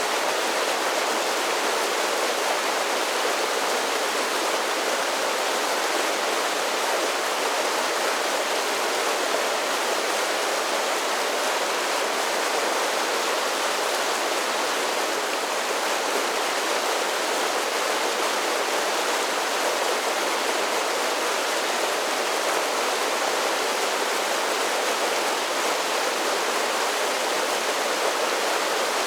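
Mountain creek water pouring down a series of small falls, a steady, even rush and splash with little deep rumble.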